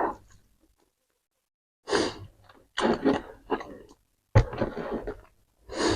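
A person's close-miked breathing and sighs while eating, in about five short breaths with pauses between.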